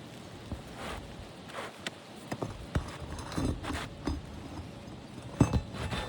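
Irregular knocks, taps and short scrapes from work on an asphalt shingle roof during shingle removal. The loudest knock comes about five and a half seconds in.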